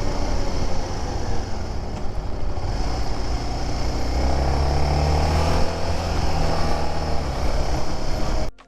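Honda Dominator motorcycle engine running while riding slowly through traffic; the engine pitch rises about four to five seconds in as it picks up speed. The sound cuts off suddenly near the end.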